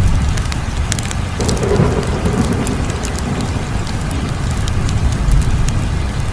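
Wood fire crackling, with scattered sharp pops over a steady low rumble; the rumble swells louder for a second or two about a second and a half in.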